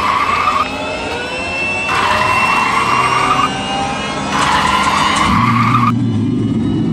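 Cartoon car sound effect: an engine running with a screech that comes three times, and a low rumble joining near the end.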